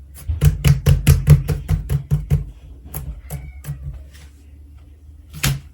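Melon-bread slime being pressed and poked by hand, a quick run of sharp pops about four or five a second, thinning out and fading over the second half, with one last loud press near the end.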